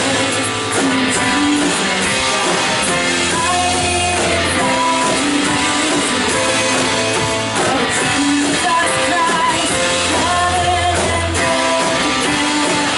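Live worship band music: singing over guitar and drums, with low bass notes held for a second or more at a time.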